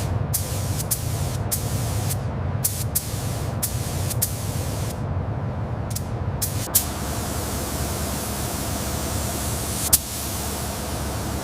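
A pressurised spray hissing on and off in short spurts, then running without a break from about seven seconds in, over a steady low hum. Two brief sharp clicks stand out, one near seven seconds and one near ten.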